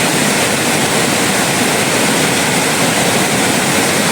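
Steady, loud rushing of fast-flowing water.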